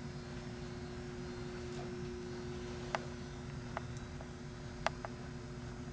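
Quiet indoor room tone: a steady low hum with a few faint, sharp clicks about three, four and five seconds in.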